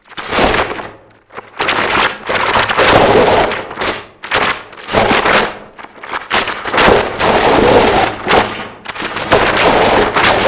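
Harsh noise music: loud walls of distorted noise that cut in and out every second or two, over a faint steady low hum.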